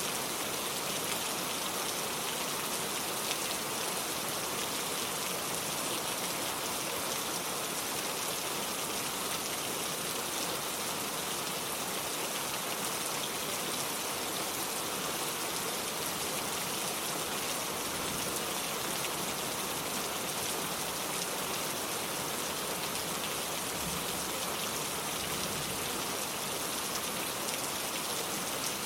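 Steady rain falling on hard surfaces: an even hiss of many drops with no single drop standing out.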